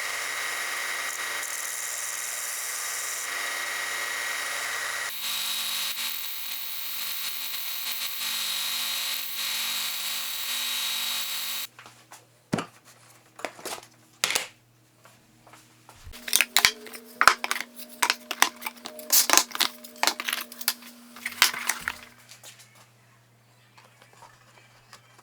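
Stationary benchtop belt sander running with a 120-grit belt as a steel chisel's edge is ground on it, a steady loud hiss and hum that stops about twelve seconds in. Scattered sharp clicks and taps follow, thickest in the middle of the remaining stretch.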